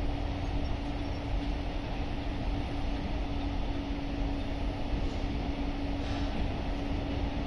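JR Freight freight train hauled by an EF210 electric locomotive, passing with a steady low rumble and a constant hum.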